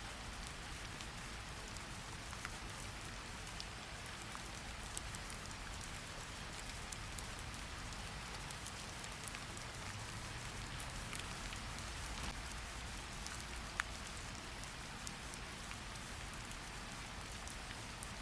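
Steady rain, an even hiss with a low rumble beneath it and scattered sharp drips ticking on a hard surface.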